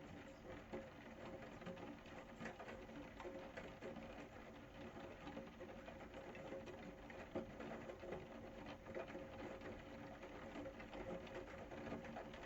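Rain pattering in a dense, even stream of small drop ticks, with a faint steady hum underneath.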